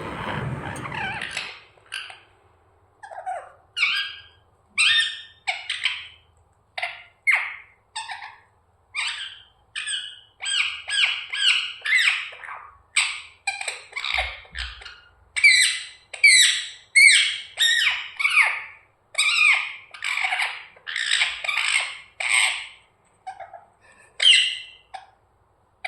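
Pet parrot chirping and squawking in a long series of short calls, coming faster and louder in the second half.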